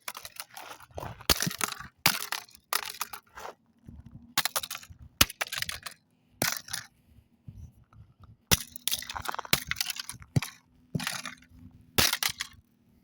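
A broken microwave oven being smashed with a hand-held striking tool: about fifteen irregular blows, each a sharp hit followed by crunching and rattling as the casing breaks.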